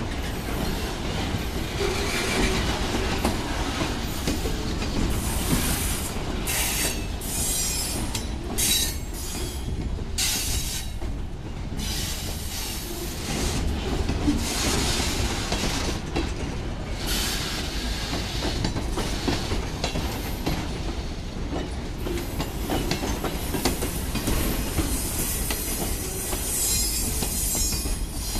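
Freight cars rolling past close by: steel wheels clattering steadily over the rail joints, with wheel squeal at times.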